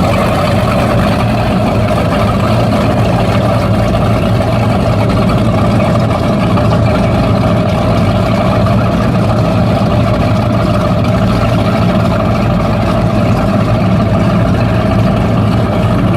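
Performance powerboat engines idling steadily, a constant even drone with no revving.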